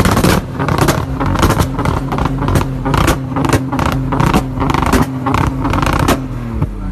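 Turbocharged Toyota 2JZ straight-six held steady on a launch limiter, its revs pinned while exhaust pops and bangs crack out about two or three times a second. Near the end the revs fall away as the throttle comes off.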